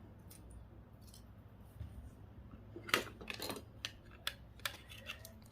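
Small hand tools working on the parts of a dismantled GPS unit: a run of sharp snipping clicks and light metallic clatter that starts about three seconds in, after a few faint ticks.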